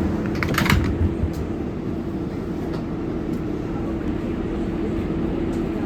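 Steady rumble and hum inside an R188 subway car on the 7 line, with a short cluster of sharp clicks and squeaks about half a second in and a few single clicks later.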